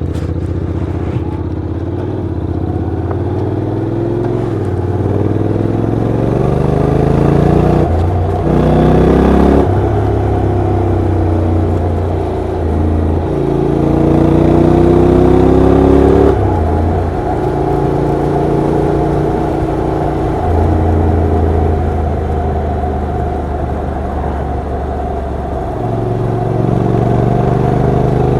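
Honda NC750X's 745 cc parallel-twin engine pulling hard, its pitch climbing in each gear and dropping back at the gear changes several times.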